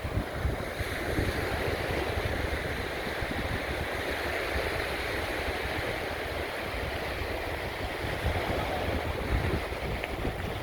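Sea surf washing steadily at the shoreline, with wind buffeting the microphone in low gusts.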